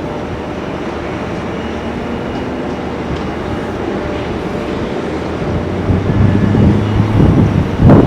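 Airbus A319 jet airliner's engines rumbling, growing louder over the last few seconds with a low steady hum coming in.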